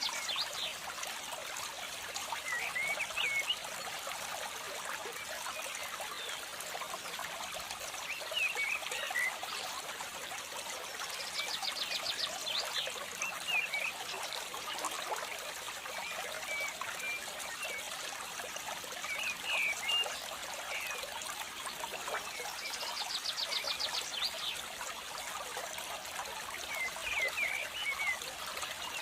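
Nature ambience: water trickling steadily like a small stream, with scattered bird chirps. A short rapid trill recurs about every twelve seconds, as in a looped recording.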